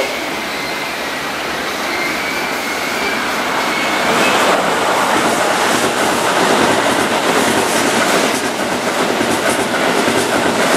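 Keihan 3000-series electric train arriving and running past close by, wheels running over the rails; the noise gets louder about four seconds in as the cars go by.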